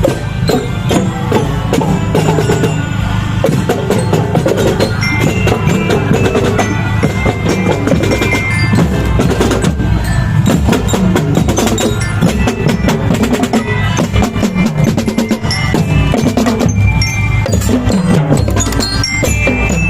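Marching band playing, with rapid drum strokes under a bright glockenspiel (bell lyra) melody of short ringing notes.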